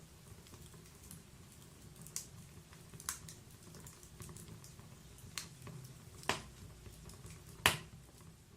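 Wood fire in a log-burning fireplace crackling: scattered small snaps over a low, steady rumble of the flames, with four louder pops, the loudest near the end.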